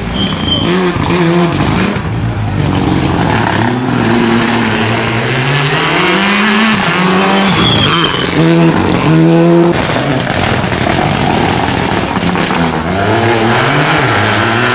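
Rally car engine revving hard on a stage, its pitch climbing through the gears and dropping several times, with a choppy high-revving stretch about eight to ten seconds in.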